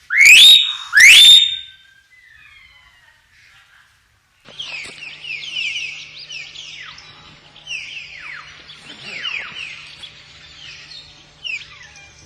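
Common hill myna giving two very loud rising whistles in the first two seconds. From about four and a half seconds in, a dense, continuous chatter of many quick falling chirps follows, with a faint steady hum beneath.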